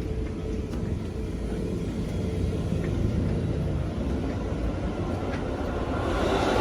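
Passenger train in motion heard from inside a coach: a steady low rumble that swells louder near the end.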